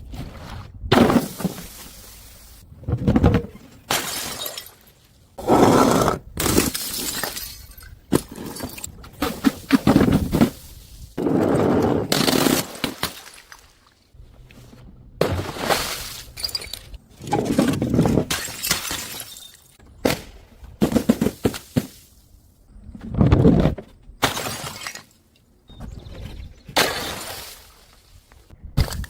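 Glass bottles smashing and shattering, one crash after another, many separate breaks each lasting about a second.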